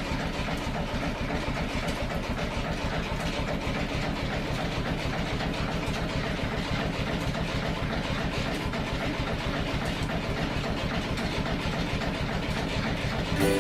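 A stationary steam engine and the workshop machinery it drives, running steadily with a fast, even rhythmic beat.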